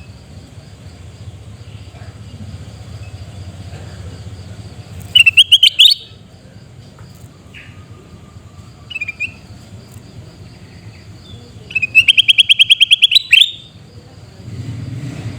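Kutilang emas (a bulbul) giving loud, harsh screaming calls: a short burst of rapid notes about five seconds in, a faint single call near nine seconds, and a longer rapid rattling series of about fifteen notes around twelve seconds. A steady low hum runs underneath.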